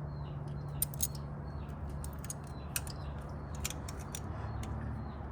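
Scattered sharp metallic clicks and ticks from hand-handling the carburetor and intake-boot hose clamps, in small clusters, over a steady low hum. Birds chirp faintly late on.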